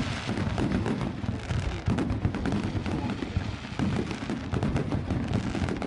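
Aerial fireworks display bursting in rapid succession, a continuous run of overlapping booms and crackles with no break.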